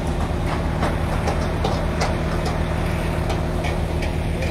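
An engine running steadily at an even low hum, with light clicks and knocks scattered over it.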